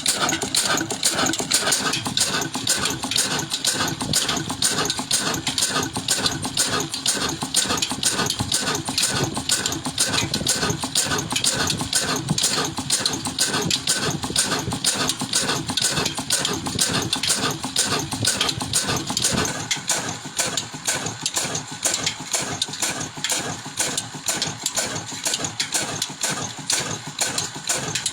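Old stationary water-pump engine running steadily with a fast, even firing beat. It becomes somewhat quieter about two-thirds of the way through.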